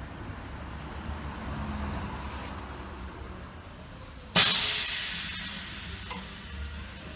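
Low machine hum, then a little over four seconds in a sudden loud hiss of compressed air released from the gasket-inserting machine's pneumatics, fading away over about two seconds.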